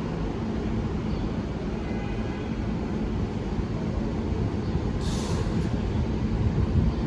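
R142/R142A subway train running in the station with a steady low rumble, and a short burst of hiss about five seconds in.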